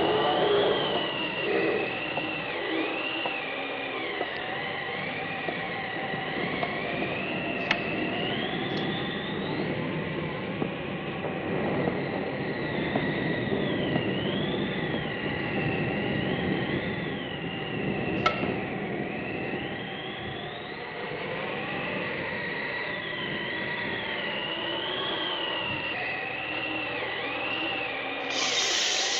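Haunted-house sound effects from a 1970s Halloween LP: a high, thin wail that keeps sliding up and down over a steady noisy rumble, with a couple of sharp clicks.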